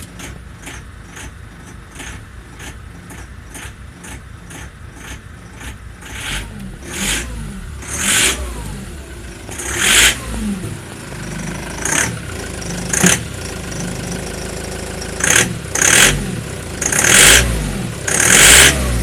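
Ford Transit 2.0 engine idling with an even knock about three times a second, then blipped about ten times in short revs. The owner cannot find the cause of the knock.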